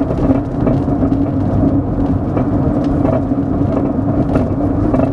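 Road noise and a steady drone inside the cabin of a moving 2003 Honda Element, with a few faint, irregular knocks from the rear suspension. The knocking comes from a torn rear sway bar link.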